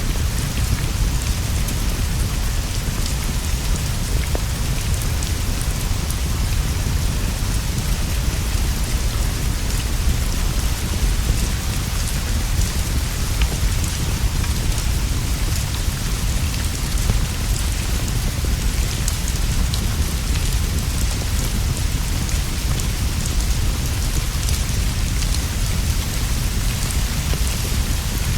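Steady rain falling: a dense, even hiss with a deep low rumble beneath it and scattered small ticks of drops.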